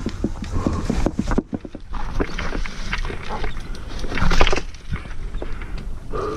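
Mountain bike riding over a rough trail: irregular knocks and rattles from the frame, chain and wheels over a steady low rumble, loudest about four seconds in.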